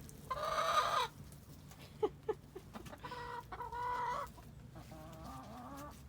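Laying hens clucking: a drawn-out call right at the start, a couple of short taps about two seconds in, then another long call and fainter ones near the end.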